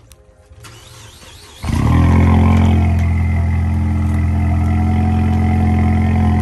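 Ford EcoBoost car's engine starting about one and a half seconds in, swelling briefly and then settling into a steady idle. It is a cold start after sitting frozen in freezing weather, and it sounds a little different than normal.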